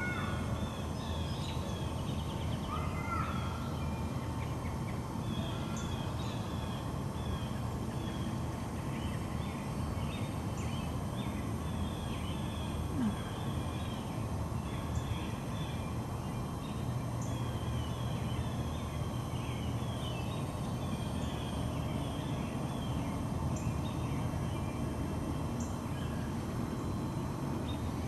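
Small birds chirping and singing over and over across the whole stretch, over a steady low background rumble.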